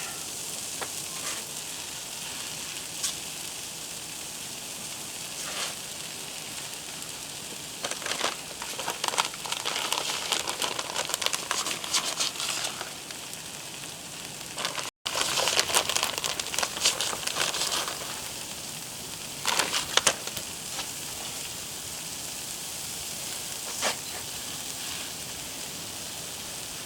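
Mozzarella cheese and bread frying directly on a Blackstone flat-top griddle: a steady sizzle, with louder crackling spells a few times and a brief dropout near the middle.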